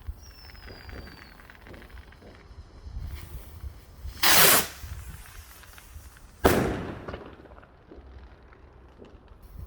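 Garden fireworks going off: a faint falling whistle at the start, then two loud blasts about two seconds apart. The first is a short rush lasting about half a second; the second is a sharp bang that echoes away over about a second.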